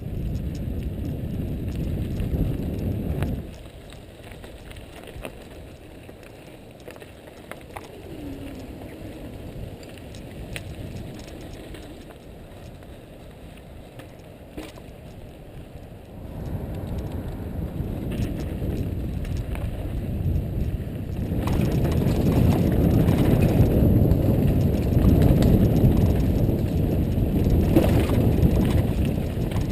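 A mountain bike rolling along a dirt trail: the rumble of tyres and the rattle of the bike mixed with wind on the microphone. It is quieter for a stretch, then grows louder, loudest in the last third.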